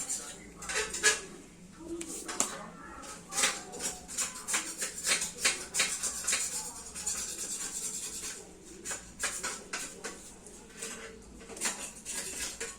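Metal parts and tools being handled, with irregular clinks and clatters of metal on metal, as in taking apart a sugarcane press.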